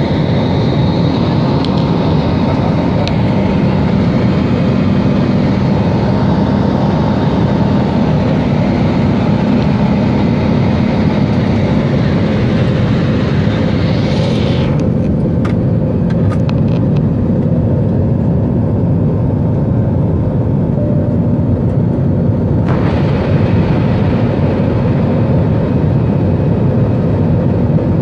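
Aircraft cabin noise during takeoff: a loud, steady roar of engines and rushing air with a low hum. About halfway the higher hiss cuts out suddenly, and it comes back abruptly about eight seconds later.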